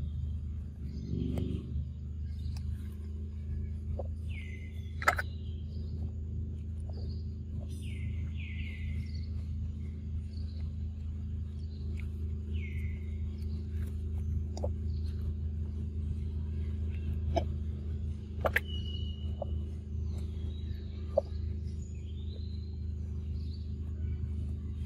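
Forest ambience: a bird gives a short call that sweeps down in pitch, repeated every three to four seconds, over a steady low hum, with a few sharp clicks.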